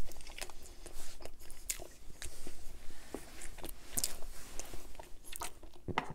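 Close-miked chewing of a mouthful of roast turkey leg: soft, wet mouth clicks and smacks at irregular intervals.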